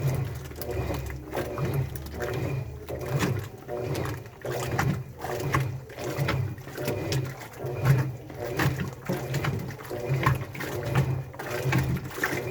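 Front-loading or automatic washing machine in its wash cycle, the drum turning and churning the wet laundry in a rhythmic surge about once a second over a low motor hum.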